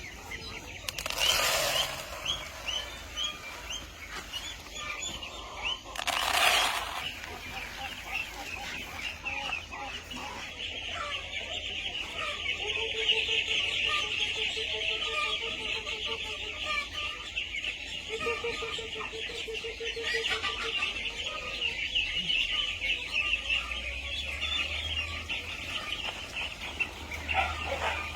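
Chickens clucking in a flock, over a dense high chatter that runs throughout. Two short rustling bursts come in the first seven seconds, and a low, rapidly pulsed cluck sounds twice in the middle.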